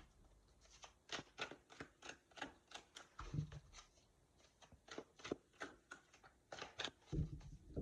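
Tarot cards being handled on a table: many soft, irregular clicks and rustles of card on card, with two low soft thumps, one near the middle and one near the end.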